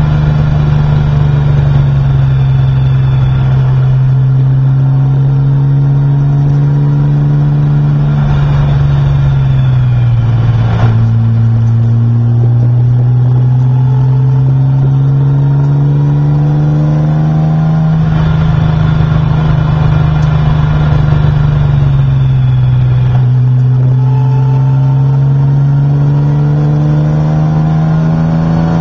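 Race car engine heard from inside the cockpit, running hard with its pitch slowly climbing, falling off about a third of the way in and again past two-thirds, then climbing again each time. A single sharp click comes just after the first drop.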